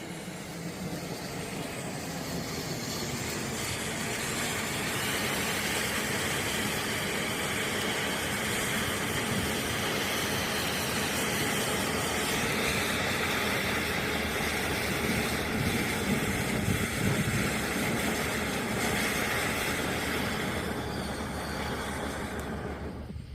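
Fire Factory Funhouse firework fountain spraying sparks with a steady hiss that builds over the first few seconds, holds, then dies away near the end.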